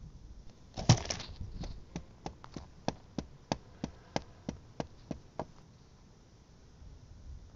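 A short clatter of knocks about a second in, then a steady run of sharp, even footstep taps, about three a second, that stops a little past halfway.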